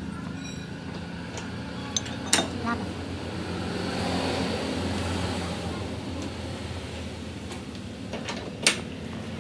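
Steady machine hum with a few sharp metal knocks, about two seconds in and again near the end.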